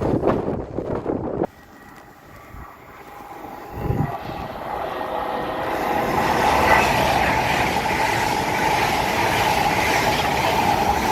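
Train approaching and running past on the main line: a rushing noise builds from about three seconds in to a steady, loud rush with a high whine. A short loud burst at the very start cuts off abruptly.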